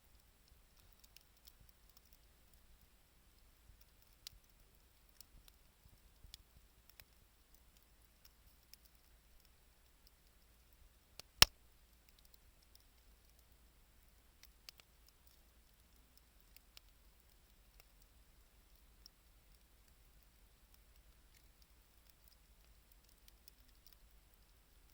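Wood campfire crackling softly: scattered faint ticks and crackles, with one sharp loud pop about eleven seconds in.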